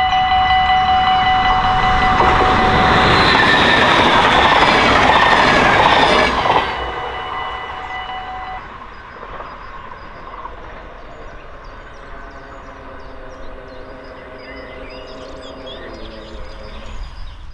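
A train passes a level crossing with its warning bells ringing. The loud rush of the train cuts off about six and a half seconds in as it clears, and the bells stop about two seconds after that.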